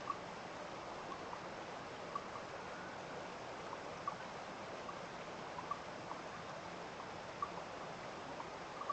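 Steady rush of running water from a stream, with short, sharp plinks every second or two.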